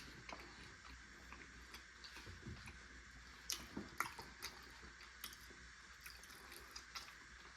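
Quiet close-miked chewing of a mouthful of chicken Alfredo: soft wet mouth clicks and smacks, scattered and irregular.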